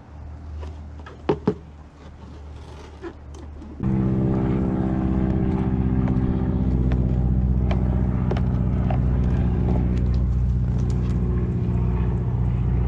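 Two sharp clicks, then about four seconds in a motor starts abruptly and runs steadily at an even pitch.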